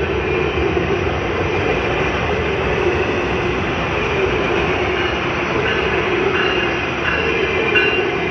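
Freight train rolling past, a steady noise of wheels on rails, with faint brief high tones from about five seconds in.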